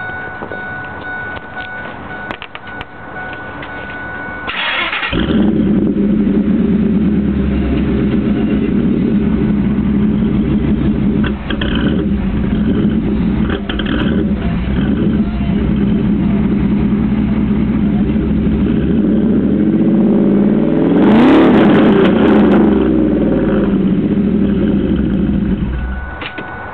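Ford SVT Lightning pickup's V8 with a catless Bassani exhaust starting up about four seconds in, then idling steadily, with one quick rev that rises and falls about two-thirds of the way through, and shutting off near the end. A thin steady tone sounds before the engine starts.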